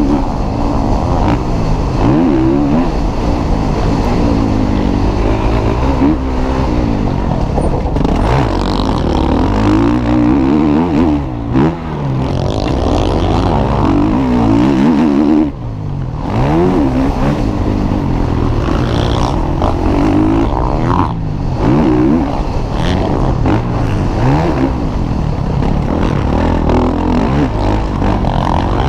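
Motocross bikes racing, their engines revving up and down in repeated rising and falling pitch as riders work the throttle and gears. There are a few brief drops in the sound, about 11, 15 and 21 seconds in.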